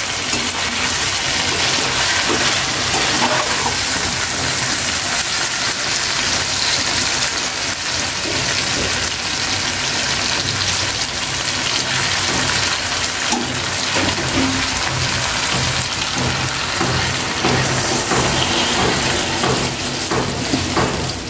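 Puti fish curry sizzling and bubbling in oil and water in a pan, cooking down so the oil comes up. A metal spatula stirs and scrapes against the pan now and then.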